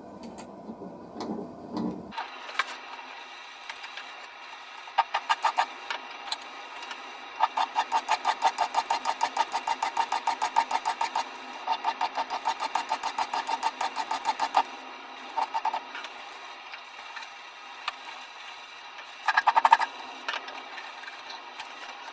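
Rapid back-and-forth strokes of a hand tool working wood, about five a second, in several runs separated by short pauses.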